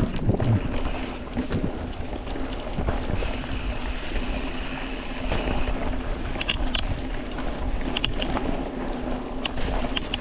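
Mountain bike rolling down a dirt and rock trail: a steady rumble of tyres with scattered clicks and rattles, and wind buffeting the microphone.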